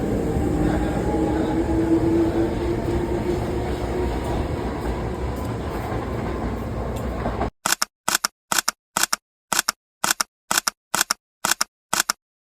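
Train running along the track: a steady rumble with faint whining tones. About halfway through it turns into short chopped bursts, about two a second, with silence between them.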